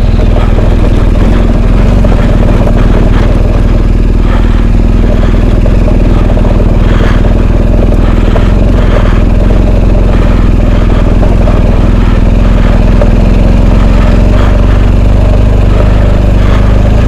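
Large twin-cylinder adventure motorcycle running in low gear on a rough off-road track, a steady loud engine rumble with the occasional knock from the bike bouncing over the ground.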